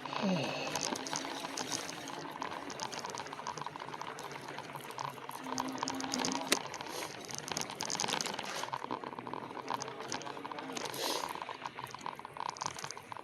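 E-bike rolling along a rough trail: a steady crackling of tyres over the trail surface mixed with dense irregular rattling ticks.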